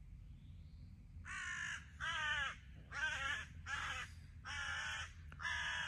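A bird giving a series of harsh, loud calls, six in a row at roughly even spacing, starting about a second in.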